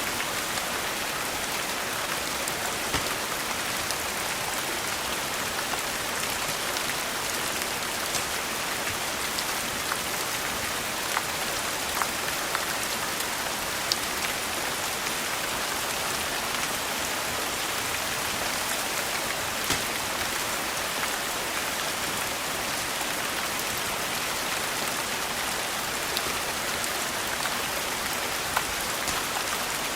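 Steady rain falling on a surface, an even hiss with occasional sharp clicks and pops scattered through it.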